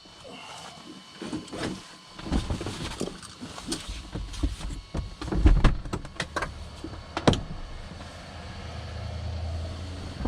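A run of irregular knocks, bumps and clicks, the heaviest about five and a half seconds in, with a low steady hum swelling in near the end.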